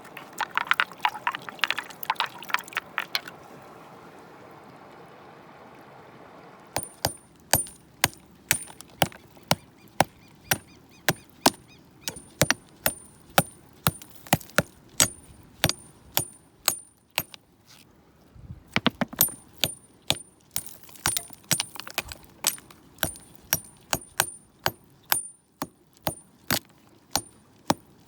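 Metal tool striking stone over and over: sharp clinks about one or two a second, after a short clatter and a few quiet seconds near the start, with a brief pause in the middle.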